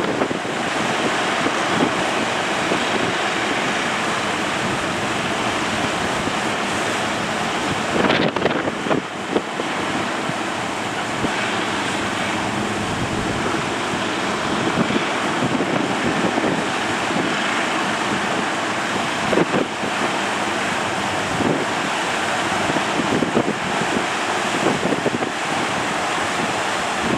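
Steady surf from large waves breaking at a river mouth, with wind buffeting the microphone in gusts.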